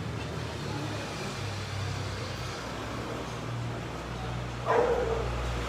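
A steady low mechanical hum, like an idling engine, with a single short dog bark near the end.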